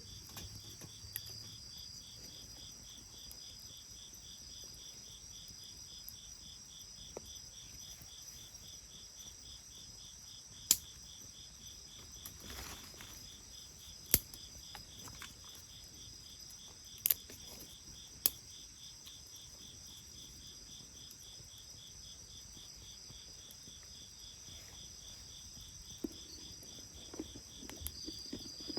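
Insects trilling steadily in a high, fast pulsing chirp, with a few sharp pops from the burning wood of a bonfire in the middle.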